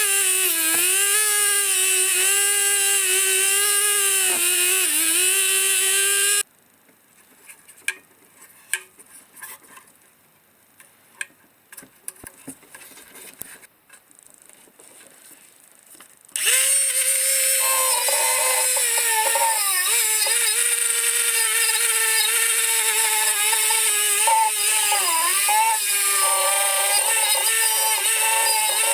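Small high-speed power tool running, its pitch dipping and wavering as it is pressed against the work. It stops suddenly about six seconds in, leaving about ten seconds of quiet with scattered small clicks of parts being handled, then starts up again.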